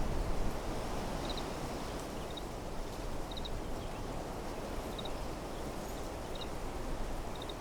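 Wind blowing through trees, a steady rushing with rustling leaves. Over it, short high chirps come in clusters of two or three, about once a second.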